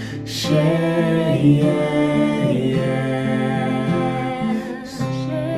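Voices chanting a sequence of long, held vowel sounds in harmony as a vocal mantra. There are audible breaths about half a second in and again near the end.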